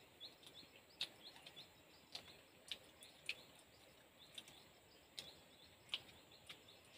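Near silence, with faint, irregular small clicks and smacks of hand-eating and chewing rice and dal, and faint high chirps repeating in the background.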